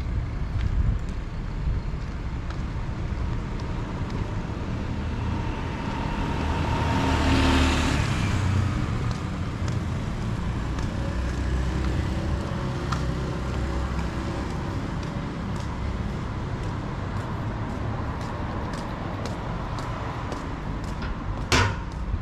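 Street traffic: a motor vehicle passes close by, swelling up and fading away about seven seconds in, over a steady low rumble. A sharp knock sounds near the end.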